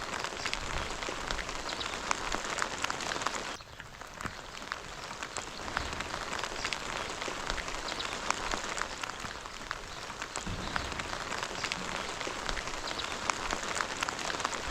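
Heavy rain falling: a dense, steady hiss of countless drop hits, with many separate sharp drops standing out. The rain is briefly quieter about three and a half seconds in.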